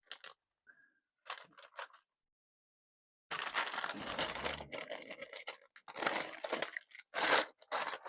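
Plastic bags of small LEGO pieces being torn open and emptied, the pieces rattling and clattering out onto a pile. A few faint clicks first, then from about three seconds in a long stretch of rustling and clattering with several louder bursts.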